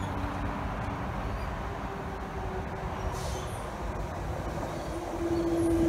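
Transperth A-series electric multiple unit approaching along the track, its running rumble growing louder as it nears. A steady whine joins in near the end.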